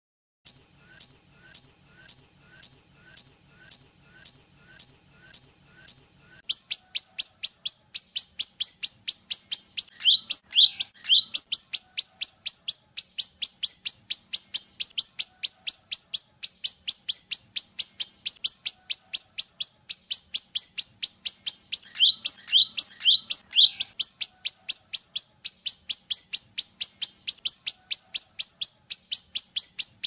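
Rio-rio bird singing: a series of high, downslurred whistles about two a second, then from about six seconds in a faster, steady run of short high notes about four a second, with a few lower notes mixed in twice.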